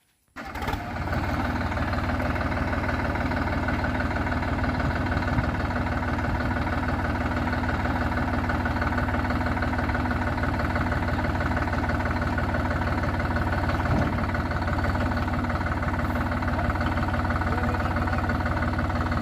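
Tractor diesel engine running steadily at an even speed, cutting in abruptly just after the start.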